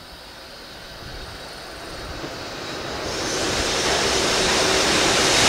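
Freight train hauled by an EH500 electric locomotive approaching through a tunnel: a rushing rail and wheel noise that grows steadily louder, getting brighter and fuller in its last couple of seconds.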